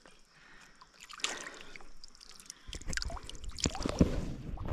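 Water sloshing and splashing beside a fishing boat, with a few sharp knocks. A low rumble comes in about three seconds in.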